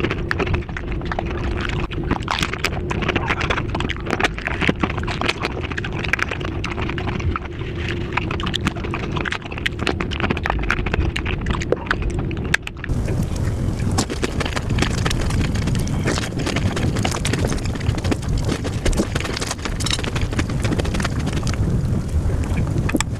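Close-miked eating of dahi puri sped up about fivefold: crunching of crisp puri shells and chewing, running together into a dense stream of fast clicks. The sound changes abruptly about thirteen seconds in, turning fuller and brighter.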